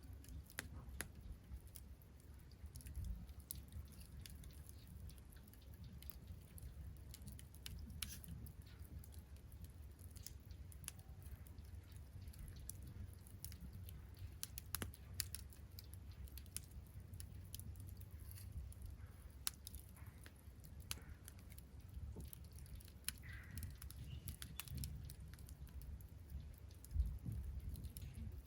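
Wood campfire crackling: scattered sharp pops and snaps at irregular intervals over a low steady rumble, with one louder pop near the end.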